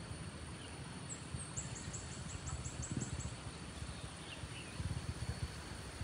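Outdoor ambience with an irregular low rumble; about a second and a half in, a bird gives a fast run of about nine high, thin chirps.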